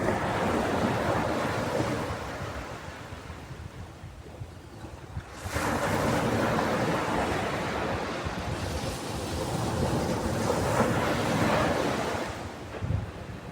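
Ocean waves breaking on a beach. One wave washes in and fades away, then about five seconds in the next wave breaks suddenly and rushes up the shore, ebbing again near the end.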